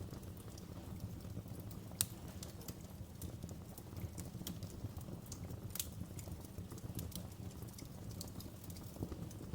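Wood fire in a fireplace crackling: a steady low rumble of flames with irregular sharp pops and snaps, the loudest about two seconds in and another near six seconds in.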